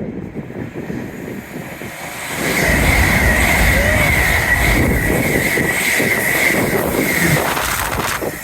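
Passenger train passing at speed. The rushing noise builds over the first two seconds, then stays loud for about five seconds with a steady high whine running through it, and eases off near the end.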